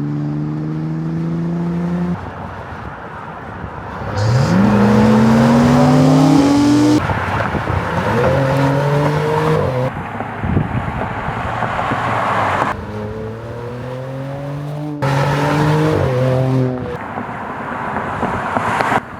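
2027 Dodge Charger Sixpack's Hurricane twin-turbo inline-six engine revving and running. Its pitch rises sharply about four seconds in, and again around nine and sixteen seconds. The sound changes abruptly every few seconds, from one run to the next.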